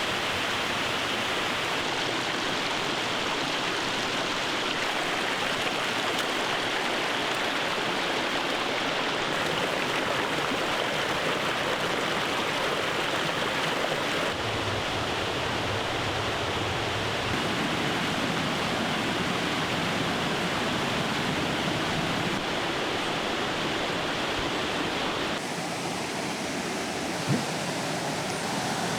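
Steady rush of a mountain stream, its sound shifting a little about halfway through and again near the end.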